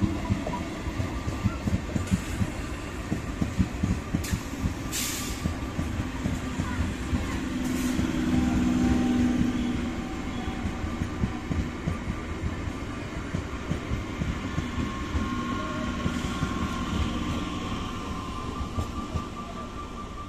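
Eastern Railway electric multiple-unit local train passing close by: a steady rumble of wheels on rail, thick with rapid, irregular clatter, and a few faint steady tones over it. It grows louder for a couple of seconds about eight seconds in.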